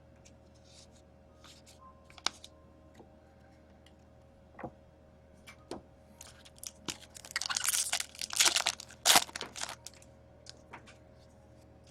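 Trading cards being handled, with scattered light clicks and a stretch of crinkling and rustling about seven to nine seconds in, ending in a few sharp snaps.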